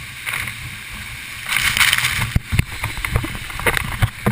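Rushing water with a steady low rumble. About a second and a half in it grows louder, with splashing and a run of short knocks and clicks.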